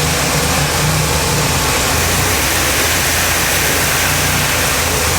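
Automatic touchless car wash spraying water jets over a pickup, a steady loud hiss, with the truck's turbocharged 2.2-litre four-cylinder idling as a low steady hum underneath.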